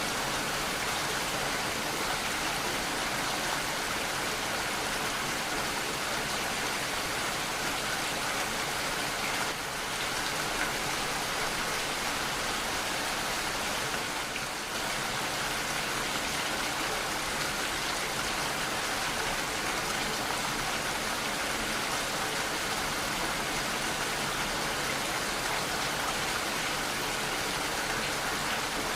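Steady rainfall: a continuous, even hiss of rain, dipping slightly twice in the middle.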